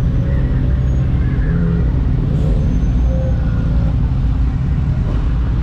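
Sport motorcycle cruising at steady speed on a highway: an even engine note under heavy wind rush on the microphone.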